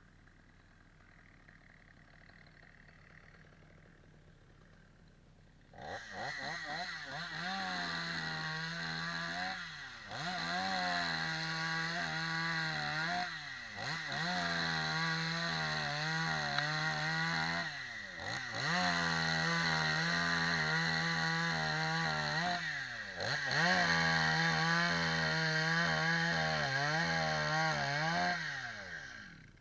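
Chainsaw comes up to speed about six seconds in and runs at high revs in four long, steady stretches. Between them the revs drop briefly and climb again, and it cuts off near the end.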